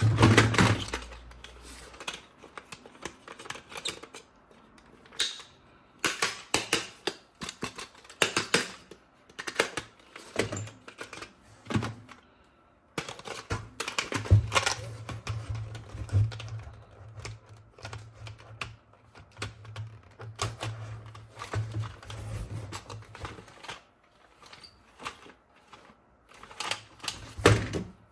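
Irregular clicks and clatter of plastic toy guns being handled, with clusters of quick clicks like a typewriter.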